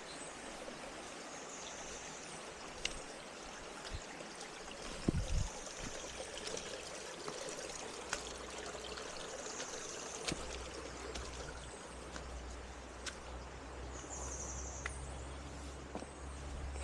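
Steady rush of a forest stream running over rocks, with short high chirps now and then and a soft thump about five seconds in.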